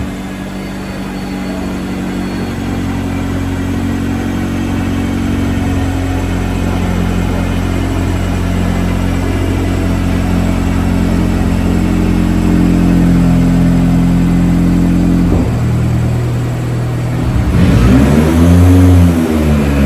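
Turbocharged K24 four-cylinder in a Nissan Hardbody truck running under load on a chassis dynamometer. It holds a fairly steady speed while growing louder, then near the end revs up and falls back once.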